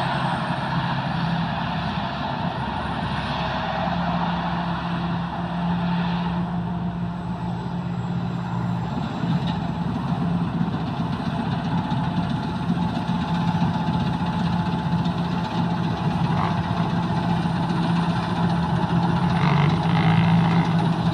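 Sakphatthana KM-D rice combine harvester running steadily with its engine and harvesting machinery going, working through lodged rice.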